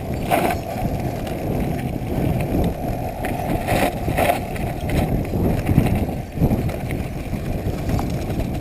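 Mountain bike ridden over a rough forest trail: continuous rumble of tyres and frame rattle with wind buffeting the action camera's microphone, and a few sharper knocks from bumps.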